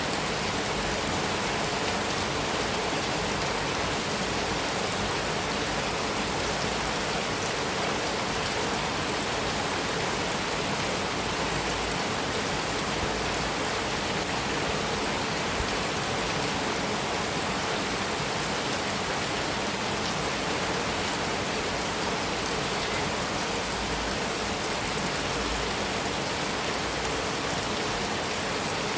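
Heavy rain falling steadily on a metal roof: a dense, even hiss of drops with no let-up.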